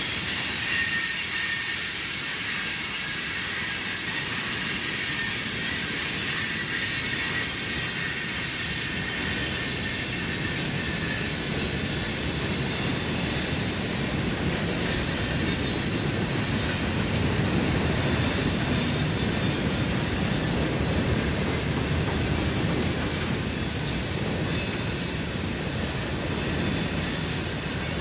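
Florida East Coast Railway freight cars (gondolas, hoppers and tank cars) rolling past on the rails: a steady rumble of steel wheels on track, with high, thin wheel squeal running over it. The rumble grows somewhat louder about two-thirds of the way through.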